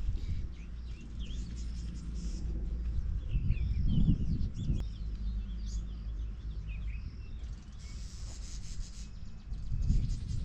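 Wild birds chirping in short scattered calls over a low rumbling background, with a couple of dull thuds about four seconds in and near the end.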